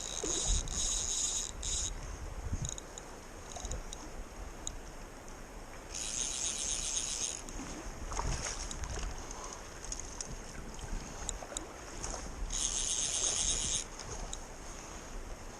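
Creek water rushing steadily, with wind on the microphone. Three short high-pitched rasping bursts come at the start, about six seconds in and about twelve and a half seconds in.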